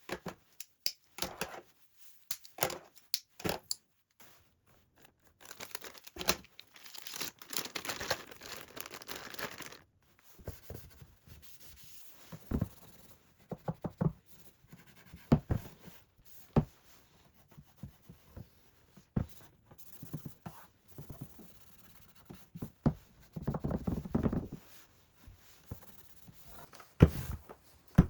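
Household items being handled and sorted by hand: scattered sharp knocks and taps of objects being picked up and set down, with longer stretches of rustling about five to ten seconds in and again near the end.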